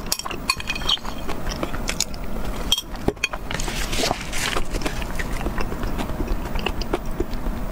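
Close-miked chewing of a mouthful of food, with many small wet mouth clicks. About four seconds in there is a brief rustle of a tissue wiped across the lips.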